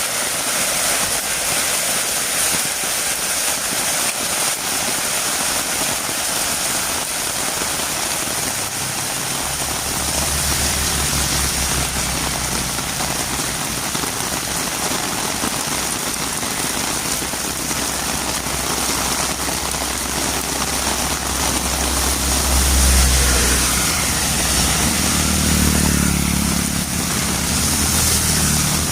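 Heavy rain falling steadily, joined about a third of the way through by the low hum of a vehicle engine that grows louder toward the end.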